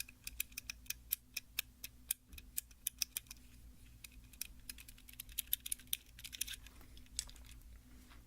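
Rapid, irregular light tapping and clicking on a small hard object, several taps a second, made as ASMR trigger sounds.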